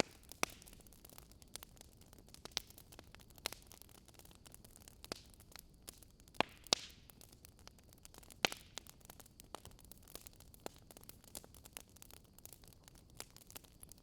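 Wood fire crackling: irregular sharp pops and snaps over a faint steady hiss, with a few louder pops a little past the middle.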